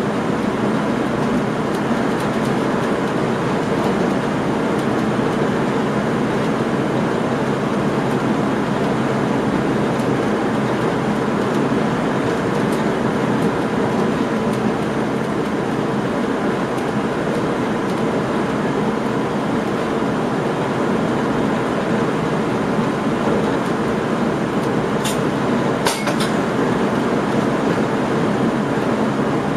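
Steady running noise of a passenger train heard from inside the driver's cab, an even rumble and hiss of the train moving along the rails. About 25 and 26 seconds in, a few sharp clicks cut through it.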